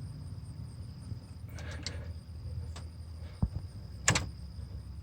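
Handling noises from the alternator's plastic wiring plug, pushed by hand and released: a few light clicks, a low knock, then one sharp click about four seconds in. The plug's lock pin is not catching, which the mechanic suspects is a defective lock pin. A steady low hum runs underneath.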